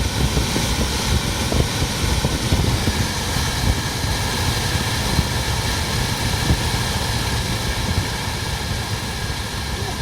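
Ford Focus II climate-control cabin blower fan running at speed: a steady rush of air over a rough, fluttering low rumble. The blower is faulty and stalls at times.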